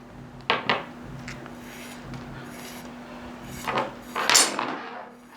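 Tent pole sections knocking and rattling against each other as the new shock cord is pulled through them: a few scattered knocks, then a louder clatter near the end.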